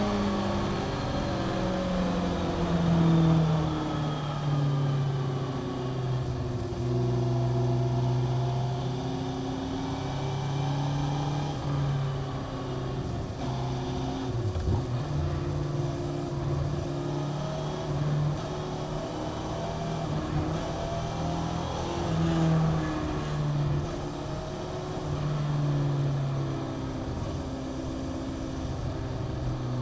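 Honda CBR600F inline-four through a Mivv aftermarket exhaust, ridden gently on a cool-down lap. The pitch rises and falls as the throttle opens and closes and the gears change, at moderate revs rather than full throttle.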